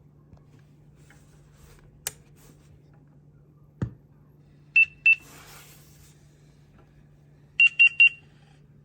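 Short high electronic beeps from a Ginzzu GM-886B portable speaker as its buttons are pressed: two beeps about five seconds in, then three quick beeps near the end. Underneath runs a steady low hum, with a couple of clicks and a dull knock before the beeps.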